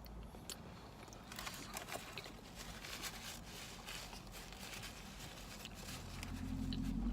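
Eating noises: chewing and small clicks and rustles of food and packaging, over a steady low rumble.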